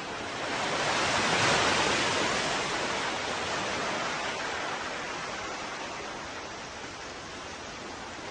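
Ocean waves: a wave breaks and swells up about a second in, then washes out and fades slowly over the next several seconds, over a steady background hiss of surf.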